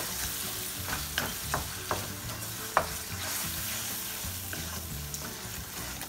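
Lamb mince sizzling as it fries in a wok, stirred with a wooden spatula that scrapes and clicks against the metal several times, the loudest knock near the middle.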